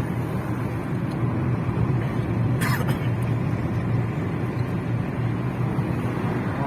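Car on the move: a steady low engine hum with road noise, and a brief hiss about two and a half seconds in.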